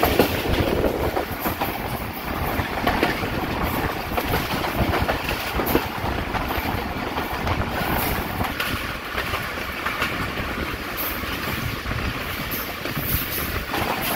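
Passenger train running at speed, heard from one of its coaches: a steady rumble with the wheels clattering over rail joints.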